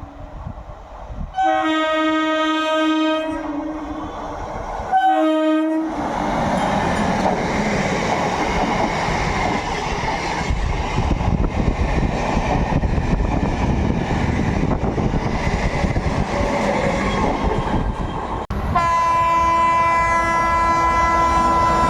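An electric MEMU passenger train sounds its horn three times, two longer blasts and a short one, then runs past with a steady rumble and clatter of wheels on rail joints. Near the end the sound cuts abruptly to a WAP7 electric locomotive's horn starting a long blast.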